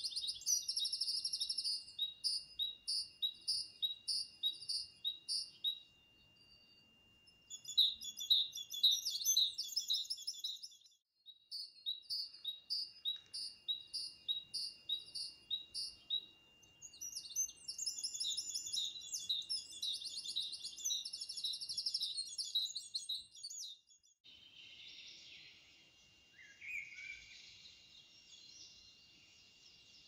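A songbird singing phrases of repeated high notes, about two a second, several phrases in a row with short pauses between. In the last few seconds the song stops and a soft hiss is left.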